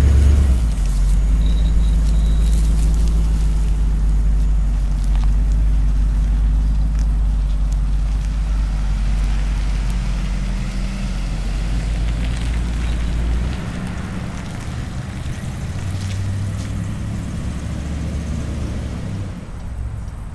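1959 Cadillac Model 62 convertible's 390 V8 running at low speed as the car pulls away and drives off. Its low, steady engine sound drops noticeably about two-thirds of the way through and keeps fading as it moves away.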